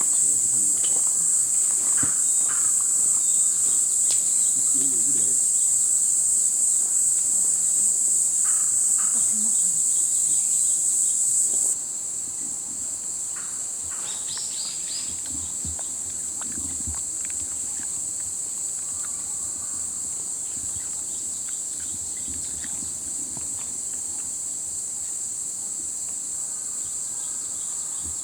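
Steady, high-pitched chorus of crickets, an even trill that suddenly drops in level about twelve seconds in and then carries on more quietly. Faint voices and small handling knocks sit beneath it.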